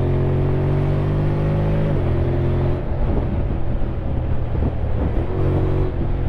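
Honda X-ADV 750's parallel-twin engine running under way, its note climbing slowly, then dropping suddenly about two seconds in and picking up again near the end.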